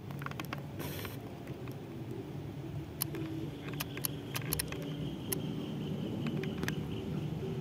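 Low, steady engine rumble of an approaching diesel train, with scattered light clicks and a faint high whine through the middle.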